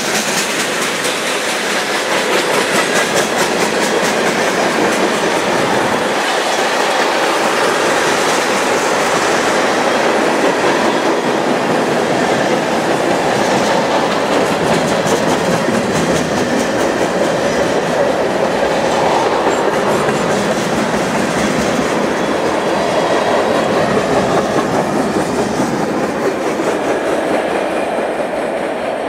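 Freight cars of a passing train, lumber flatcars and a long string of tank cars, rolling by at speed: a steady loud rumble and rattle of steel wheels on rail, with repeated clicks of the wheels over rail joints. The sound eases off near the end as the last car goes by.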